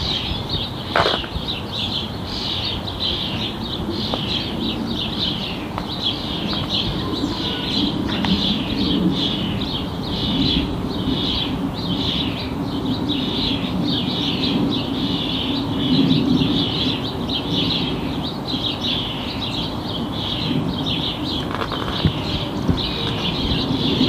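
A high chirping call repeated steadily about one and a half times a second, over the low distant rumble of a jet airliner at cruising altitude that swells up in the middle and eases off again.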